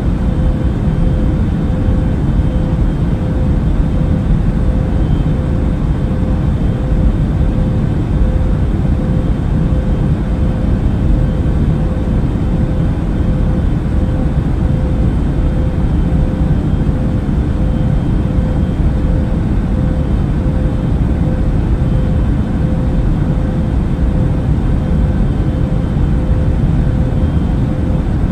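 Airplane in flight heard as a steady, unchanging rumble of engine and airflow noise, mostly low, with a constant mid-pitched hum running through it.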